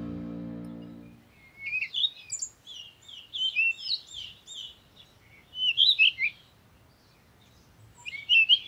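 Background music fading out in about the first second, then a small songbird chirping in quick runs of high notes, with short pauses between the runs.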